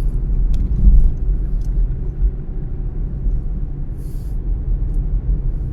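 Car driving, with a steady low rumble of road and engine noise that swells slightly about a second in. A brief faint hiss comes about four seconds in.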